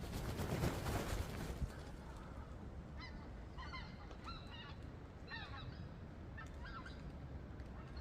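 Birds calling outdoors: from about three seconds in, a series of short calls with bending pitch, coming in quick groups. It follows a burst of noise that fades out over the first couple of seconds.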